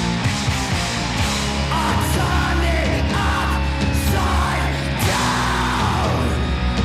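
Loud, heavy punk rock band music, with a dense full-band mix and a shouted or yelled vocal.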